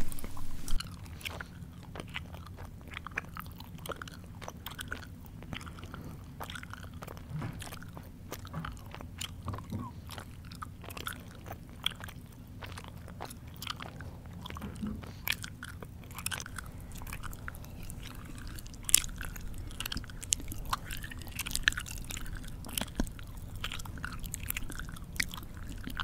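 A person chewing close to the microphone, with many irregular wet smacking and clicking mouth sounds and one sharper click about three-quarters of the way through.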